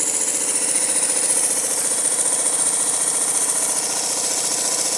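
Engine running steadily at speed with a fast, even beat and a steady hiss over it; it runs smooth, without vibration.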